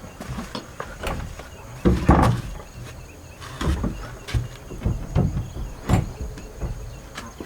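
Irregular knocks and thuds at uneven intervals, with some scraping. The longest and loudest comes about two seconds in.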